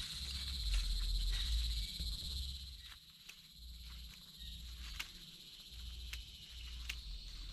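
Rainforest insects chirring steadily at a high pitch, with a low rumble that is strongest in the first two seconds and scattered light clicks and knocks over it.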